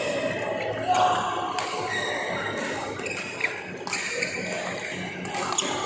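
Doubles racket match on an indoor court: a few sharp racket hits and short squeaks of shoes on the court floor, over the murmur of voices in a large hall.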